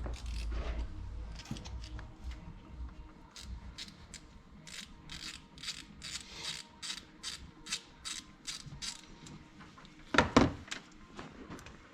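Ratchet wrench clicking in a quick run of short strokes, about three a second, as a small fastener is worked, then a louder metallic knock near the end.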